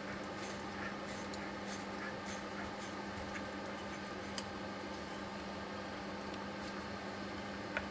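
Steady low hum with scattered light clicks and ticks, as of parts being handled during a steering rack teardown; one sharper click about halfway through and another at the very end.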